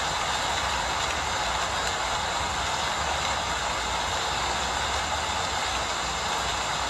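Rain falling steadily, an even hiss with no breaks, over a faint low rumble.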